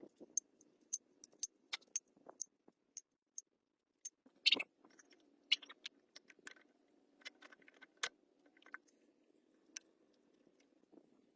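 A run of sharp, light clicks and taps at irregular spacing, the loudest about halfway through, over a faint steady hum.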